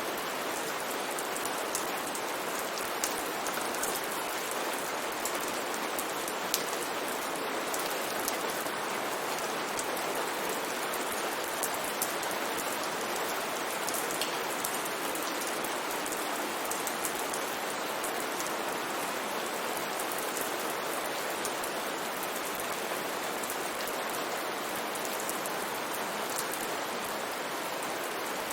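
Steady rain falling, an even hiss of many drops with scattered individual drop ticks on a surface.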